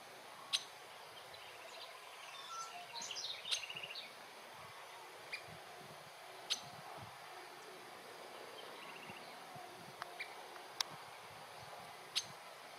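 Birds around the woodland: a brief twittering, chattering phrase between about two and four seconds in. Sharp single ticks come every second or two.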